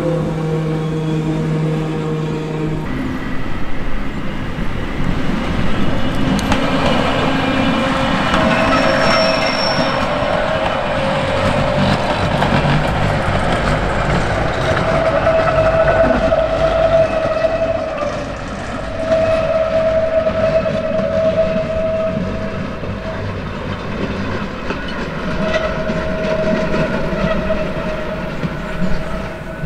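Classic Be 4/4 metre-gauge railcar of the Lauterbrunnen–Mürren mountain railway running past on the track. It is a steady rumble with clicks from the rail joints and a high tone that comes and goes for a few seconds at a time.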